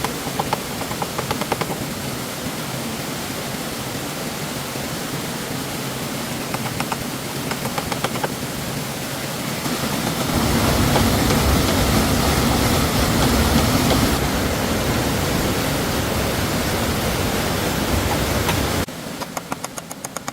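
Steady rush of flowing stream water, growing louder and deeper about halfway through, with a few faint ticks at times. The rushing drops away suddenly near the end.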